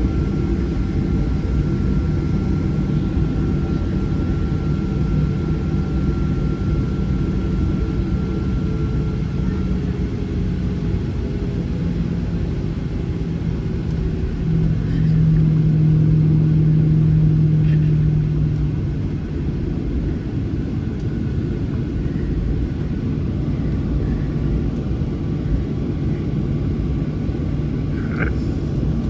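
Boeing 737's jet engines running at taxi power, a steady low rumble and hum heard inside the cabin, swelling louder for a few seconds about halfway through as thrust is briefly added.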